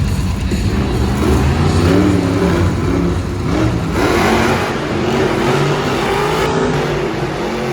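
Monster truck engine revving hard, its pitch rising and falling again and again, loud over a steady rumble.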